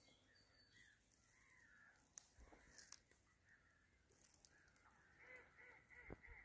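Very faint distant bird calls, with a quick run of evenly repeated calls starting about five seconds in, and a few faint ticks.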